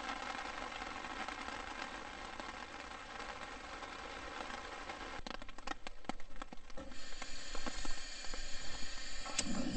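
Steady hiss of rain falling on a camp whose campfire it has just put out. About five seconds in comes a run of sharp crackles, followed by a louder, steady hiss.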